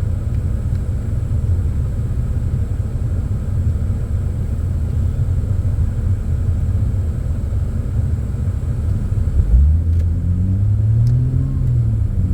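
Car engine with a steady low rumble. About nine and a half seconds in, the engine speeds up, its pitch rising for about two seconds, then eases off.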